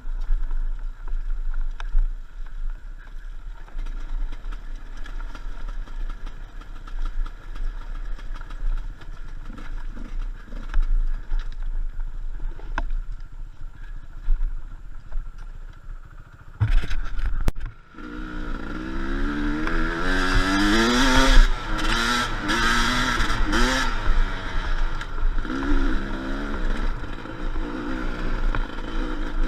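Enduro motorcycle engine running low with knocks and clatter, then revving hard from a little past halfway, its pitch climbing and falling again and again.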